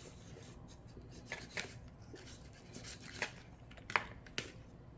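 Soft scrapes and light clicks of a utensil working a ripe avocado, a handful of short sharp ticks, the loudest about four seconds in.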